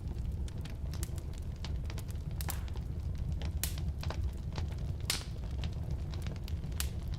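Firewood burning in a fireplace, crackling with irregular sharp pops, a few of them louder, over a steady low rumble.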